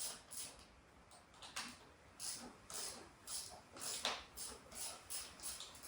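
A soft, rhythmic rasping or breathy sound, about two short strokes a second, with slight pauses between runs.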